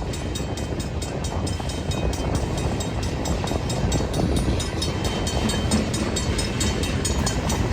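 BNSF freight train passing close by, a steady rumble of wheels on rails.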